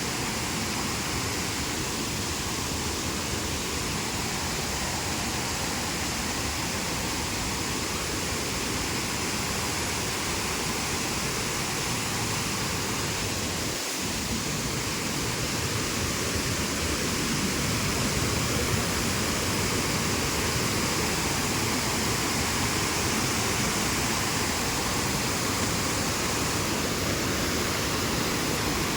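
Waterfall: water falling and splashing in a steady, even rush, a little louder in the second half.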